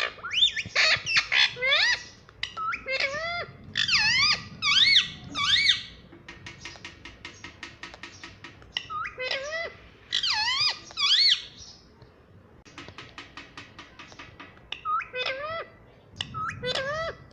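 Pet parrot giving clusters of short, shrill squawks that swoop sharply up and down in pitch. Two stretches of rapid clicking come in the middle and again a few seconds later.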